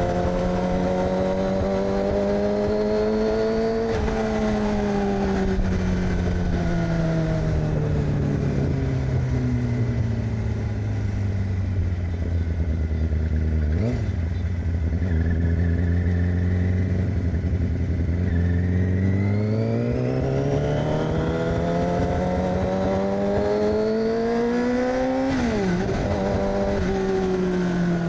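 2006 Yamaha R6's inline-four engine through an AR aftermarket exhaust, ridden on the road: the engine note rises, then falls slowly as the bike slows, runs low and steady for several seconds, then climbs again under acceleration. About 25 seconds in the pitch drops sharply at a gear change, then the engine note sinks again.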